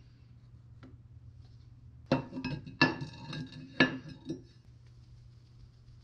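Hard metal objects knocking together: three sharp, ringing clanks a little under a second apart, with a few lighter knocks between them. They come about two seconds in.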